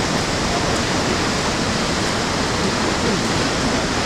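Kegon Falls, a waterfall about 100 m high, roaring steadily: a loud, even rush of falling water.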